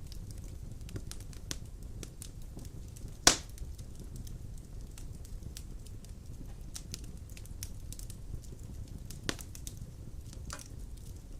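Large wood logs burning in an open fireplace, crackling with many small clicks over a steady low rumble of the flames. A loud sharp pop comes about three seconds in, and smaller pops come near the end.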